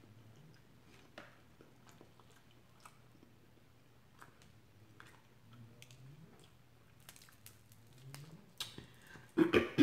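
Faint chewing and biting with small wet mouth clicks, as a person eats fried food. Near the end there is a much louder, voice-like sound.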